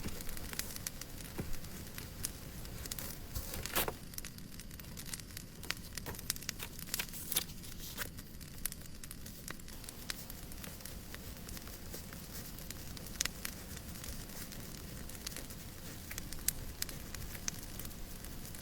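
Fireplace crackling: irregular sharp pops and snaps over a steady soft hiss, with one louder snap about four seconds in.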